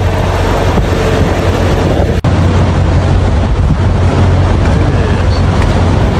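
Loud, steady rumble of strong wind buffeting the microphone, broken by a brief dropout about two seconds in.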